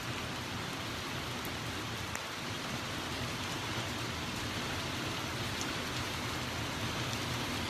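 Steady downpour of a thunderstorm's rain mixed with a little hail, an even hiss with a few faint light ticks.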